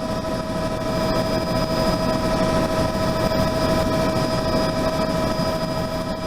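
Steady aircraft turbine engine noise: a high whine with several steady tones over a broad rumble, swelling a little in the first second and then holding level.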